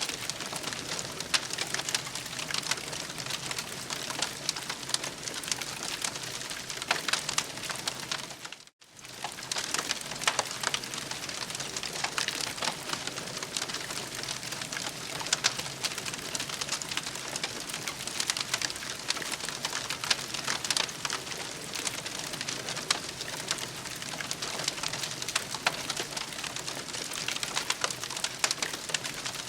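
Campfire crackling, with a dense run of sharp pops and snaps over a steady hiss. It cuts out for a moment about nine seconds in, then resumes.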